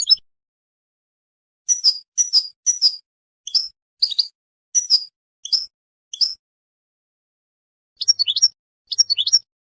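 Birds chirping: a run of short, high calls, about two a second, then a pause of over a second and two quick clusters of calls near the end.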